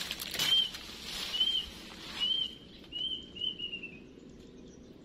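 A small bird chirping: about five short, slightly arched whistled notes over the first four seconds, the last few coming closer together. Brief bursts of noise sound alongside the first few chirps.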